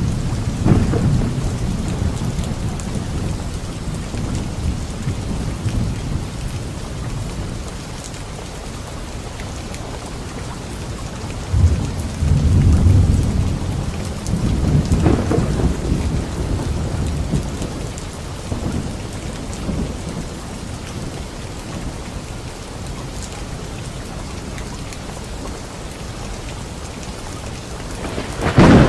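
Steady rain falling with rolling thunder. Low rumbles swell near the start and again about halfway through, and a sharp, louder thunderclap breaks in right at the end.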